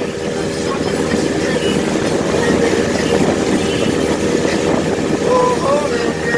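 Motorboat engine running steadily under way, with a haze of wind and water noise over it.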